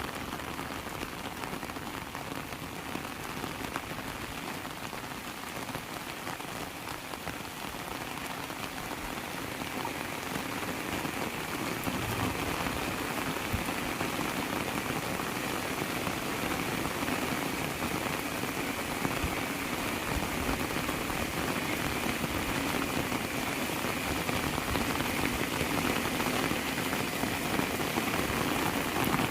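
Heavy rain falling steadily, a dense patter of drops that grows gradually louder and heavier through the second half.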